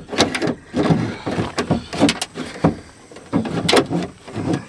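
Metal window regulator clanking and scraping against the sheet-metal door shell of a 1995 Ford F-150 as it is worked out through the door opening: a quick, uneven run of knocks and rattles.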